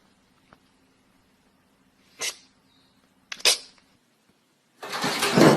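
A pet's short, sharp sneeze-like puffs of breath: two brief ones about a second apart, then a longer, louder burst near the end, over a faint steady hum.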